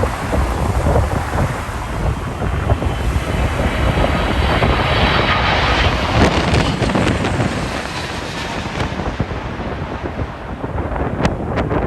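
Jet airliner passing low on its landing approach. Its engine whine and rush swell about three seconds in and fade away by about nine seconds. Gusty wind buffets the microphone throughout.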